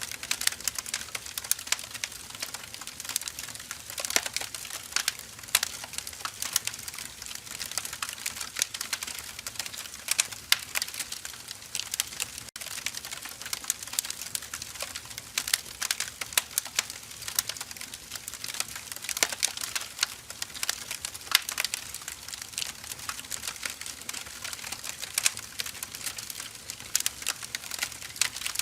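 Burning firewood crackling: irregular sharp pops and snaps over a soft steady hiss.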